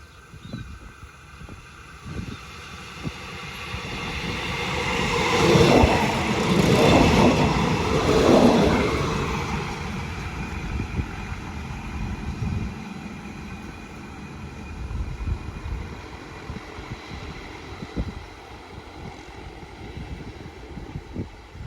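An SRT RHN diesel railcar train passing close by. Its engine and wheel noise swell to a loud peak about six to nine seconds in, then fade, with repeated short knocks of the wheels running through.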